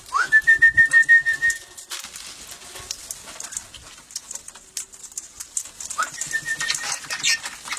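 Parrot calls: two calls, each sweeping up into a high, fluttering note and holding it, the first right at the start and the second about six seconds in, over small clicks and rustling.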